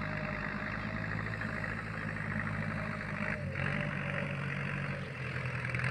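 Tractor engine running steadily as it works a field, with its note shifting slightly about three and a half seconds in.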